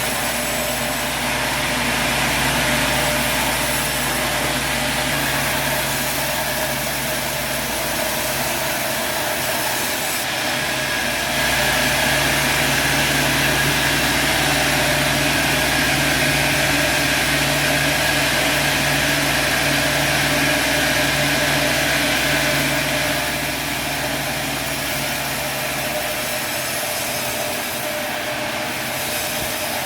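Sawmill machinery running steadily. It gets louder about eleven seconds in and drops back about twelve seconds later.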